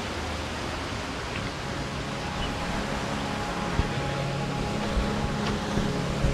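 Steady rushing of a cascading waterfall, with a few short thumps near the end.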